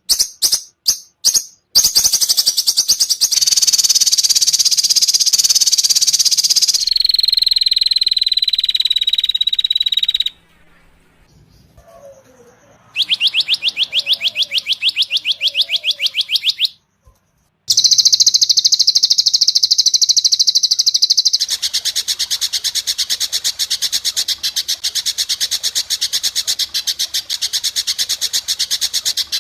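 Spliced recordings of songbird song for training caged birds. First a few sharp notes, then a dense high trill, then a steady high whistle that ends suddenly about ten seconds in. After a brief near-quiet gap with faint low calls, further rapid trills and a long run of fast, evenly repeated high notes follow, each segment starting and stopping abruptly.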